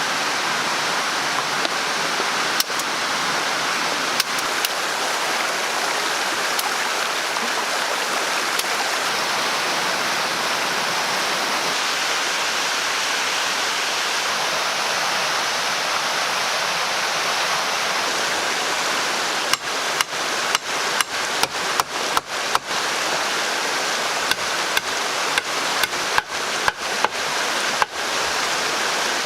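Steady rushing noise of running water throughout. About two-thirds of the way in, a run of sharp knocks begins, roughly two a second: a tool striking wood.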